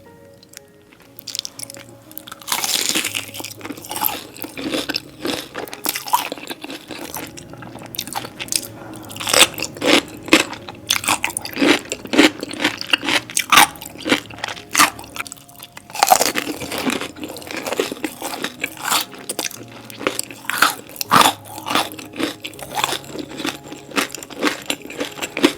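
Loud, close-miked crunching bites and chewing of Hot Cheeto-coated food, starting about two and a half seconds in and going on in quick, irregular crunches, over soft background music.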